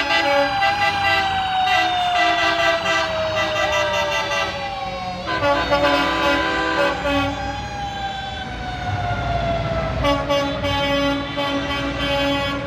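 A siren on a passing parade truck wailing in long, slow sweeps that fall in pitch, with vehicle horns sounding over it, the horns starting abruptly about five and ten seconds in.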